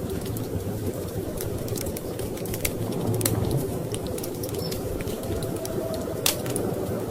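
Wood fire crackling in a fireplace, with scattered sharp pops and one louder snap about six seconds in, over a steady low rush of storm wind.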